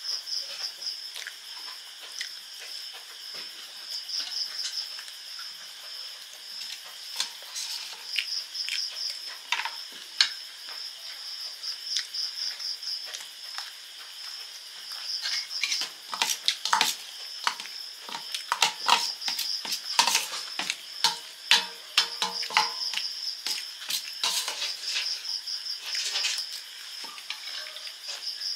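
Chewing of crunchy puffed rice and fried fritters, a close, crackling series of crunches that grows busier in the second half. Under it, a steady high-pitched chirring of insects.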